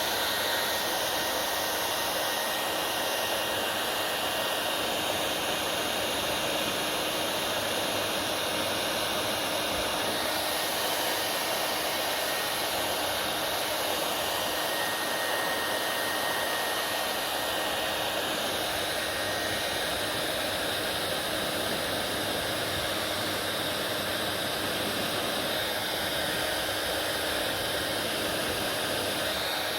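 Hair dryer running steadily: a constant airy rush of blown air with a faint steady whine.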